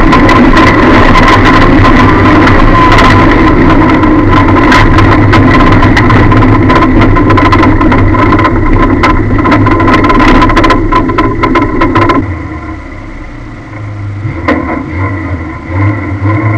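Lada's engine running hard inside the stripped, caged cabin, with frequent sharp knocks and rattles from the car body. About twelve seconds in the sound drops off sharply, and near the end the engine revs up again with a rising pitch.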